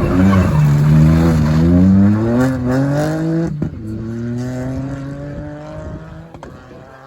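Rally car engine accelerating hard with rising revs, changing gear with a sharp break about three and a half seconds in, then pulling away again as the sound fades into the distance.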